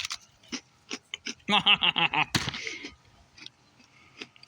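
A few light clicks, then about a second and a half in a short, rapidly pulsing vocal sound from a person tasting a mint cookie, ending in a sharp breath.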